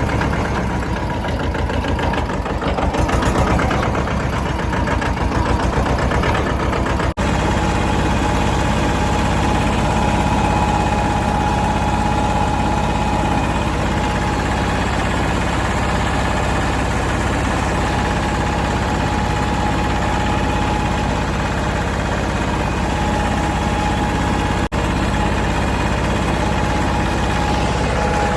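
Mahindra Jivo 305 DI tractor's diesel engine running steadily. The sound drops out for an instant twice.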